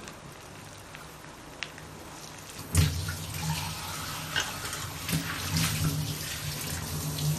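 Chopped onion and green chilli sizzling in hot butter and oil in a kadai. About three seconds in a wooden spatula knocks against the pan, and the frying then grows louder with scraping and clicking as the onions are stirred.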